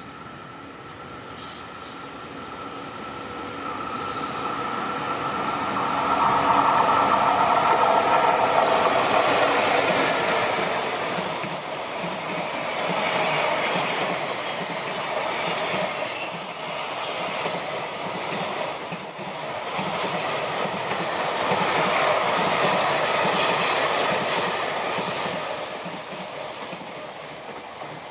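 Freight train hauled by an EF65 DC electric locomotive passing, its container wagons' wheels rumbling and clattering over the rails. It grows louder over the first six seconds or so, then stays loud, swelling and easing as the wagons roll by.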